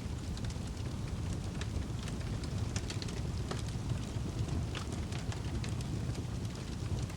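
Wood fire burning in a fireplace: a steady low rumble of flames, with irregular sharp crackles and pops from the burning logs.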